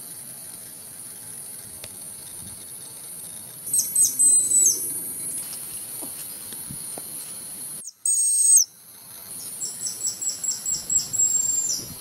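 High-pitched whistled bird calls: a burst of sharp calls with falling ends about four seconds in, one loud call just after eight seconds, then a quick run of repeated notes, about four a second, near the end. A steady high insect drone runs underneath.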